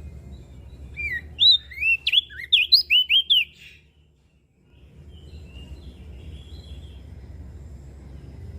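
Crested white-eye (opior jambul) singing one quick phrase of about a dozen high, sliding whistled notes that lasts a couple of seconds, followed by fainter chirps. A low steady rumble runs underneath.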